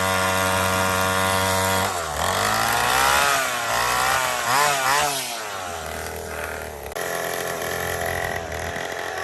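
Small dirt bike engine idling, then revved up and down about three times from about two seconds in, settling back to a steady idle.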